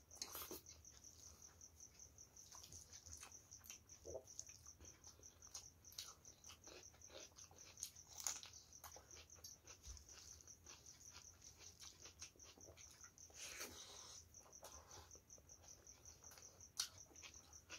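Faint eating sounds: scattered wet clicks and smacks of chewing and of a hand mixing rice with curry, over a steady high-pitched pulsing tone.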